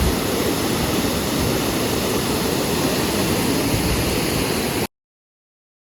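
Steady rushing water, like a waterfall or spillway, which cuts off abruptly about five seconds in, leaving silence.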